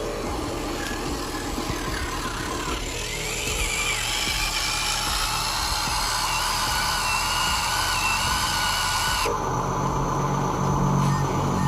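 Electric motors and gearboxes of radio-controlled construction models whining, the pitch rising and wavering as the throttle changes. About nine seconds in it cuts abruptly to a deep, steady engine-like hum.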